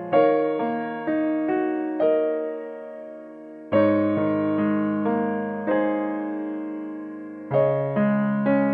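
Background music: slow, gentle piano, single notes and chords struck and left to fade, in short phrases.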